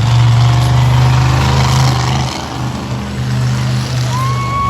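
Monster truck engine running at a steady, deep idle that dips briefly partway through. Near the end a steady high-pitched tone sounds for about a second.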